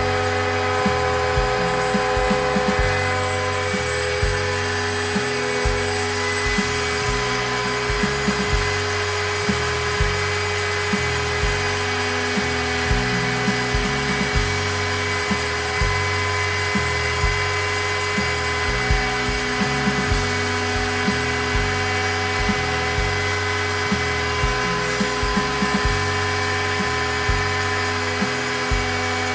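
Background music with a steady beat over the steady high whine of a DIY CNC router's spindle running.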